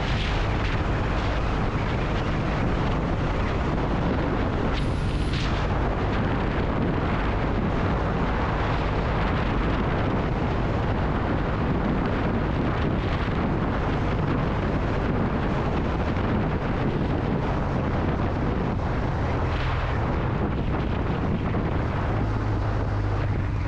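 Kawasaki W800 Cafe's air-cooled parallel-twin engine running steadily at road speed, under a continuous rush of wind over the microphone. The engine note grows a little stronger near the end.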